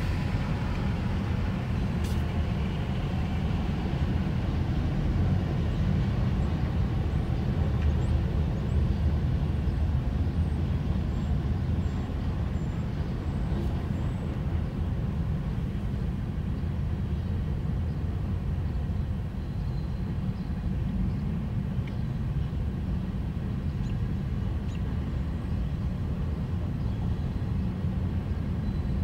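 Freight train of gondola cars rolling through a road crossing, a steady low rumble heard from inside a stopped car.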